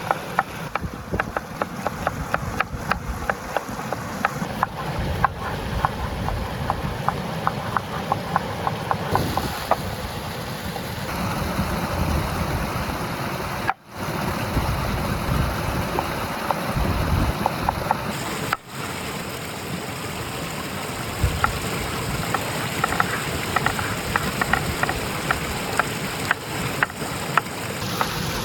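Crackling and sizzling of cooking over an open wood fire: a steady rush dense with small irregular pops. It cuts out for an instant twice, near the middle.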